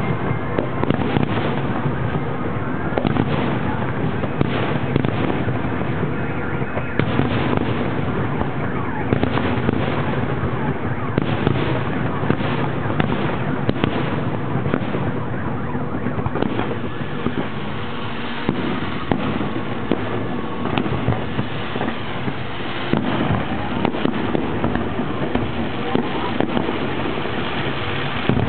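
A fireworks display: a continuous barrage of bangs and crackling, the bangs densest in the first half.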